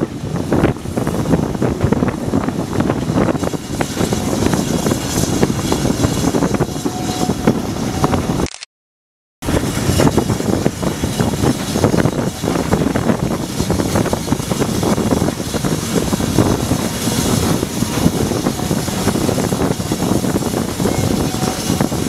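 Passenger train running slowly on the rails, with wheel and carriage rattle, a run of small clicks and wind on the microphone. The sound cuts out completely for about a second near the middle, then carries on as before.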